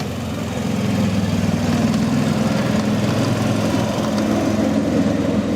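Small engine running steadily, growing louder about a second in and then holding.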